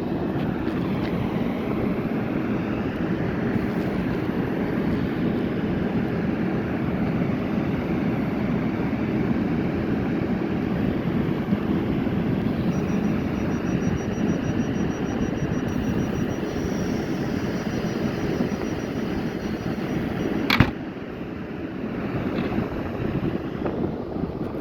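A train running at the station platform: a steady low rumble. A thin, high pulsing tone sounds through the middle, and a sharp click near the end is followed by a quieter rumble.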